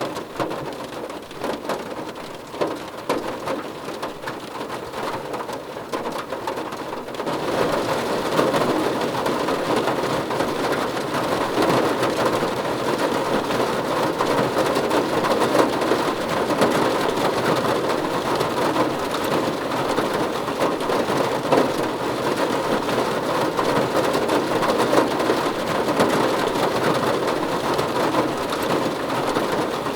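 Steady rain falling on a car roof, a dense patter of drops, growing heavier and louder about seven seconds in and holding at that level.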